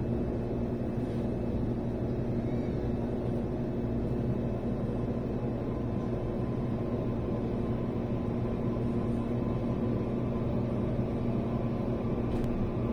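Steady running noise heard inside a moving train carriage: a low rumble with a steady hum.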